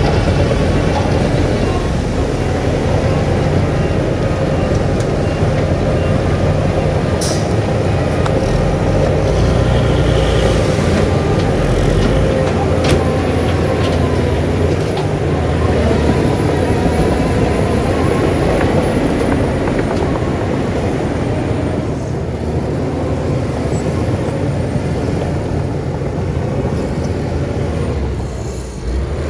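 Heavy diesel earthmoving machinery running steadily under load, with a couple of short sharp metallic clicks and a brief drop in level near the end.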